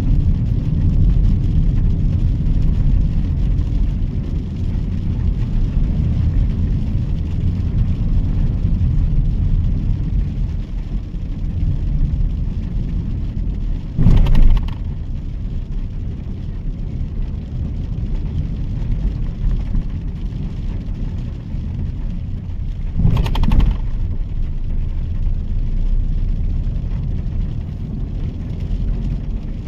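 Steady low rumble of the Mahindra XUV 3XO's 1.2-litre three-cylinder turbo petrol engine and tyres driving on wet city roads in rain. Two short, loud noises, about halfway through and again some nine seconds later, stand out above the rumble.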